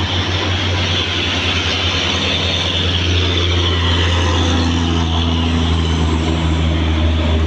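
A road vehicle's engine running steadily with road noise, a constant low drone underneath. A steadier engine note comes in about four seconds in and holds to the end.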